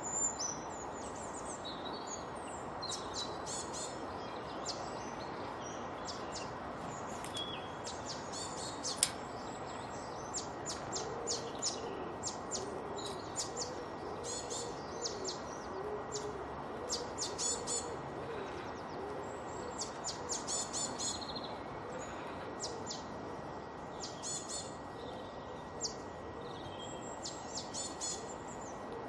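Several birds singing and chirping, with many short high calls and trills throughout, over a steady background hiss.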